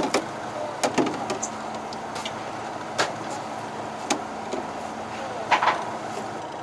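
Steady hum of a fishing boat's engine, with a few sharp clicks and knocks of tackle and gear on the boat.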